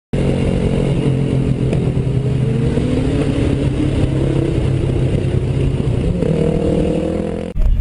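A vehicle engine running with road noise, its note rising near the end, then cut off abruptly.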